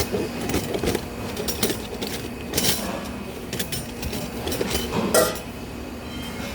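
Metal clanking and clinking over a steady machine hum, with several sharp strikes, the loudest about five seconds in.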